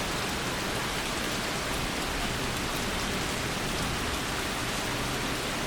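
Steady rain from a rainstorm, an even hiss with no breaks.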